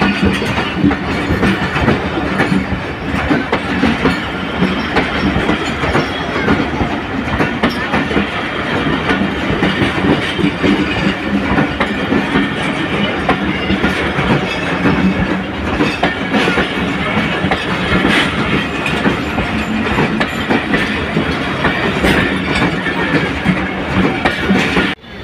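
Train running along the track, its wheels clattering over the rail joints in a steady run of knocks, which cuts off abruptly at the very end.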